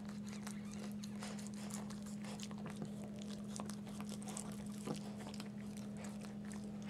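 Bichon Frise mother dog licking her newborn puppy clean, a run of faint short wet clicks and smacks, over a steady low hum.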